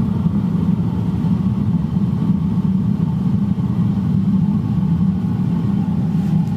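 Metal-melting furnace burner running with a steady, deep rushing noise that holds level throughout.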